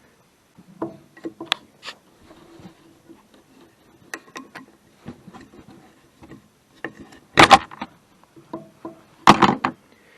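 Hand tools and metal parts being handled during a car suspension job: scattered light clicks and knocks, with two loud clanks about two seconds apart in the second half.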